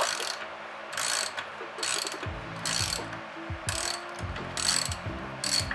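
Ratchet wrench clicking in repeated back-and-forth strokes, about one stroke a second, as a nut is worked off.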